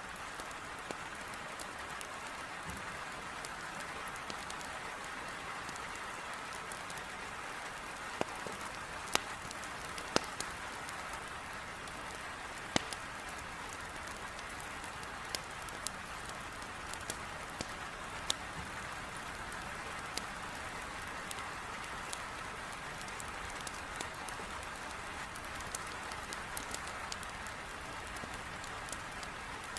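Heavy rain beating steadily against a window, with sharp pops of a crackling wood fire now and then.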